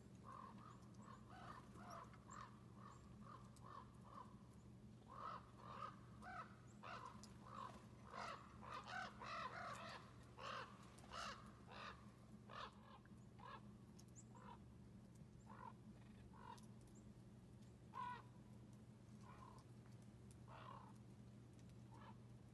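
Faint outdoor bird calls: many short, rough calls repeated in quick succession, thickening into a busy cluster in the middle before thinning out, over a faint steady low hum.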